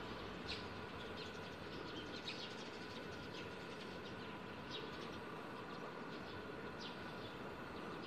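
Short, high bird chirps, half a dozen at irregular intervals, over a steady outdoor background with faint continuous tones.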